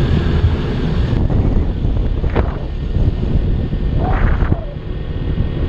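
Kawasaki Ninja 300 parallel-twin running on the move, under heavy wind rush on the microphone. Two brief whines swell and fade about two and four seconds in.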